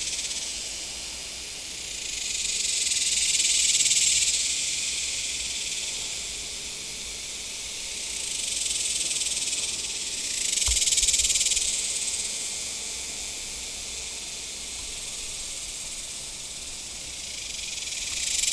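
Cicadas in a tree buzzing loudly in a dense, high-pitched drone that swells and fades several times.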